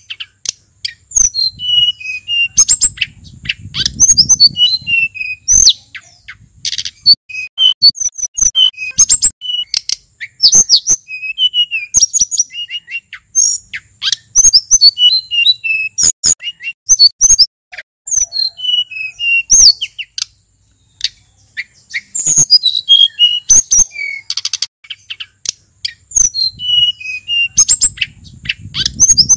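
Male sulingan gunung singing a fast, varied song of short high whistles and chirps, some gliding up or down, in quick runs with brief pauses. A faint low rumble comes in about four seconds in and again near the end.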